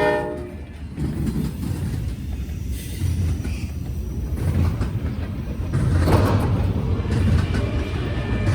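Freight train rolling past: a steady low rumble of the cars on the rails, with a louder burst of clatter about six seconds in.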